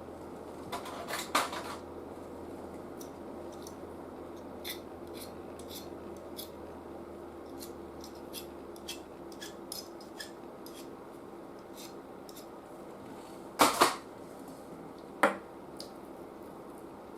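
Small tools and parts being handled on a workbench: scattered light clicks and taps, with a few louder clatters about a second in and twice near the end, over a steady low hum.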